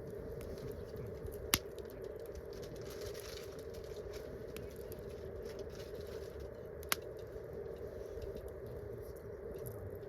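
Wood campfire crackling with faint ticks, and two sharp pops about a second and a half in and again near seven seconds, over a steady background noise.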